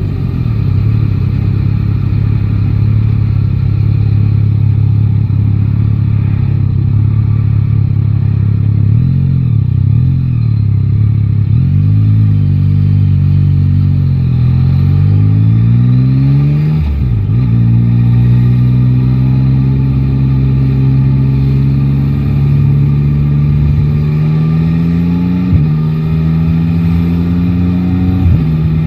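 Yamaha Tracer 9 GT's 890 cc three-cylinder engine running under way. It holds a steady note at first, wavers with the throttle, then rises in pitch under acceleration, with a gear change about halfway through and another near the end.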